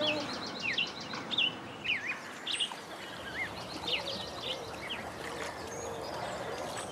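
Small birds chirping and singing, with many short calls that rise and fall in pitch and a quick rattling trill in the first second, over a faint steady hiss.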